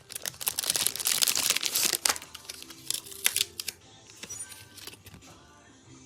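Plastic packaging crinkling loudly as it is handled and opened for about two seconds, then lighter rustles and a few small clicks. Faint music plays underneath.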